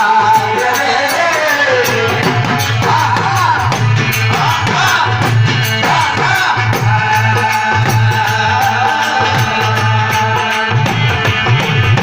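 Indian folk devotional music: an instrumental passage with hand drums and a rattle keeping a steady beat under a melody.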